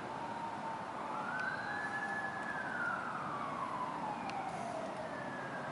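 Distant emergency-vehicle siren wailing, one slow rise and fall in pitch, faint over a steady background hiss.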